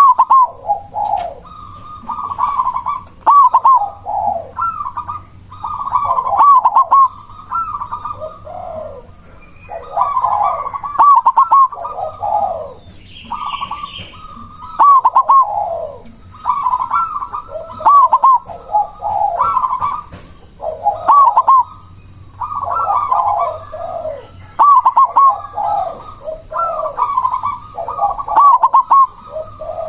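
Zebra dove (perkutut), black cemani variety, singing its loud, rhythmic cooing song, phrase after phrase with short pauses between them.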